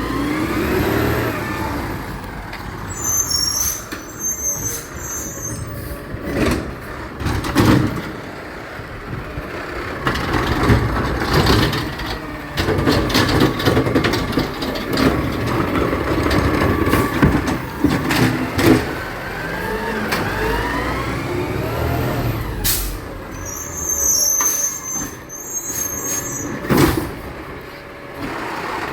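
A garbage truck at work: its engine runs under rising mechanical whines, with repeated sharp clanks and knocks and short high squeaks twice.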